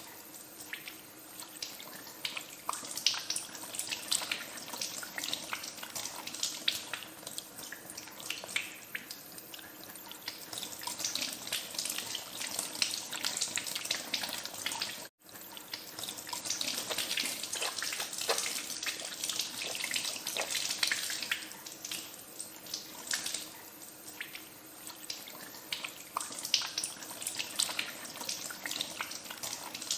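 Tap water running into a sink with hands being washed under the stream, an uneven splashing patter throughout. The sound drops out for an instant about halfway through.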